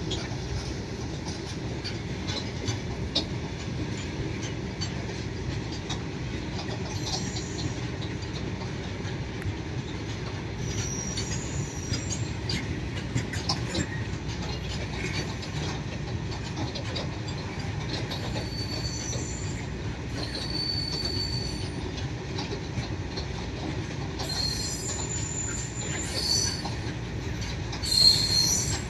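Freight train wagons rolling past with a steady low rumble and intermittent high-pitched wheel squeal, which grows more frequent and louder near the end.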